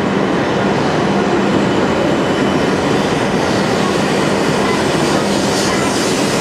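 Hokuriku Shinkansen E7/W7-series train running alongside the platform: a loud, steady rumble of motors and wheels.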